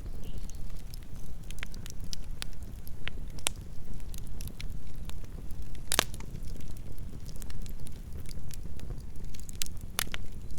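Campfire burning: a steady low rumble of flames with scattered sharp pops and crackles of wood, the loudest pop about six seconds in and another near the end.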